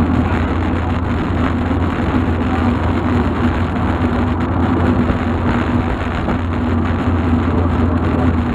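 Volkswagen Golf Mk2 being driven at a steady pace: engine and road noise make an even, unbroken drone.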